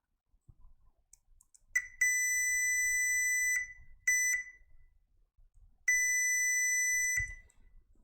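Digital multimeter's continuity buzzer beeping in a steady high tone: a short beep, a long beep of about a second and a half, two quick blips, then another long beep, each time the probes find a low-resistance path while hunting a short on the power supply board. Faint clicks of the probes come just before the first beep.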